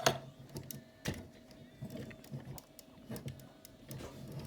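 Plastic toy robot parts clicking and rattling as they are handled and moved, with a sharp click right at the start and another about a second in, and lighter ticks between.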